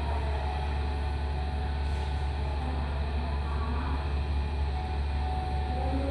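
Hitachi excavator's diesel engine running steadily with a low drone, with a faint wavering whine above it.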